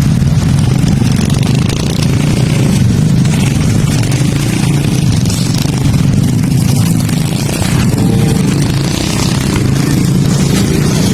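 A steady, loud low rumble of a running vehicle engine, with a hiss over it.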